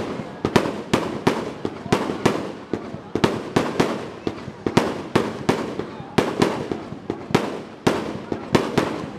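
Fireworks going off in a rapid barrage: sharp bangs several times a second, each with a short echo.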